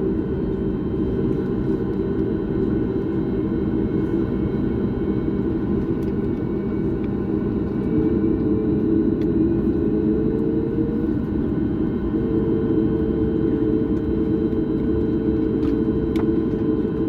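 Jet airliner cabin noise: a steady rumble of engines and airflow. About eight seconds in, a humming tone comes in, climbs slightly and then holds.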